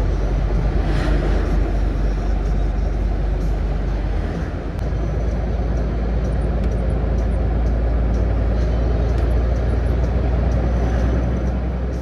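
Scania S450 truck's diesel engine running steadily while driving, with a deep low hum and road noise, easing off briefly about four seconds in.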